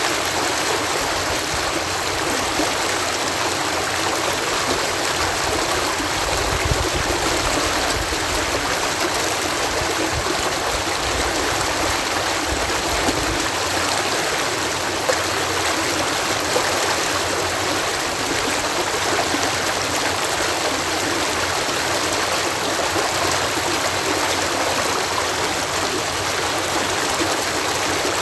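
Water cascading through a canal lock, a steady rushing and splashing, with a little more low rumble for a few seconds near the middle.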